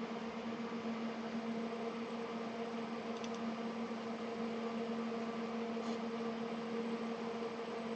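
Steady hum of a small motor or fan, a low tone with its octave over a light hiss, with a few faint light clicks about three seconds and six seconds in.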